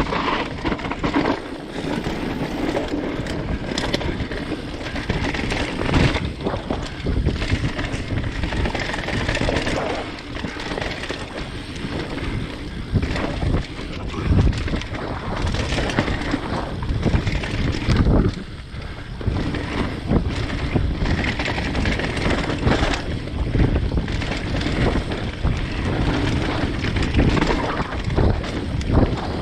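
Mountain bike riding fast down a dirt singletrack: wind buffeting the microphone, tyres rolling over dirt and the bike rattling with frequent knocks over bumps.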